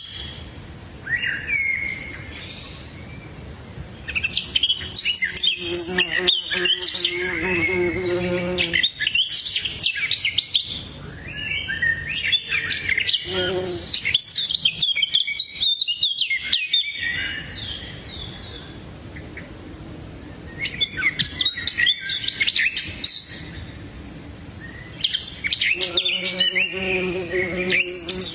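Birds chirping and tweeting in bouts of rapid high calls with short lulls between them. Twice, a lower, steadier call sounds underneath the chirping.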